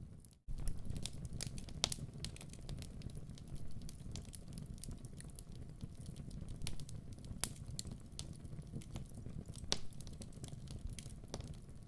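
Wood fire crackling in a fireplace: a soft low rumble under irregular sharp pops and snaps. The sound drops out completely for a moment about half a second in.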